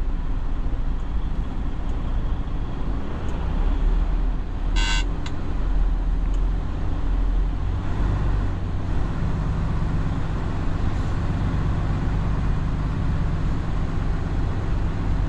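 Semi-truck's diesel engine running, heard from inside the cab as the truck rolls slowly; the low engine note grows stronger and steadier about eight seconds in. A brief high-pitched beep sounds once, about five seconds in.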